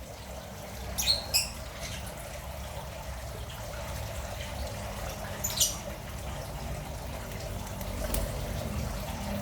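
Steady trickle of running water. Three short, high bird chirps sound over it: two close together about a second in and one more near the middle.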